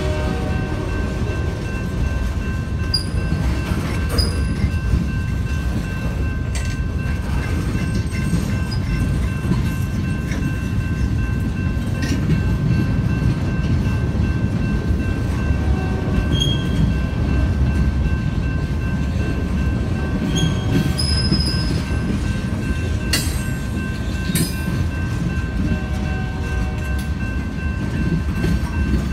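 Freight train of tank cars and boxcars rolling past close by: a steady heavy rumble with scattered clanks and knocks, and thin steady high-pitched squealing tones held above it.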